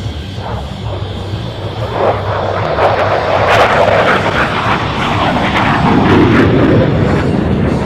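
F-16 fighter jet making a low pass. Its jet noise swells loud from about two seconds in, and the pitch drops around six seconds in as it goes by.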